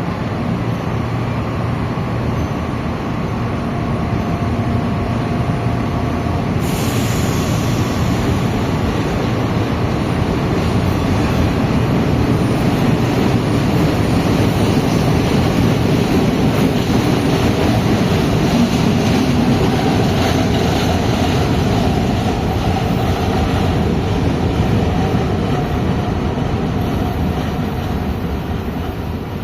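Metro train running on the rails. It grows louder toward the middle and eases off near the end, with a high wheel squeal from about seven seconds in.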